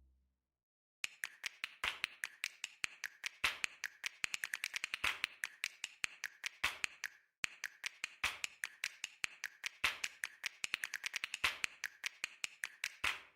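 Rapid, irregular sharp clicks or taps, several a second, in two runs with a brief break about seven seconds in.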